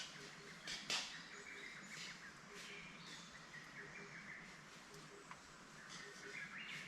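Small wood fire in a tabletop fire box crackling, with a few sharp pops, the loudest about a second in. Faint chirping calls and a soft pulse repeating about once a second sound behind it.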